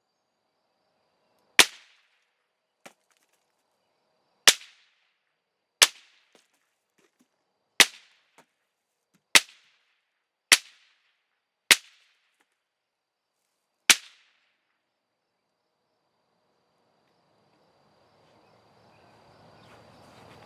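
Eight shots from a Marlin Model 60 semi-automatic .22 LR rifle firing hollow points, each a sharp crack, spaced about one to two seconds apart. A faint tick follows three of the shots.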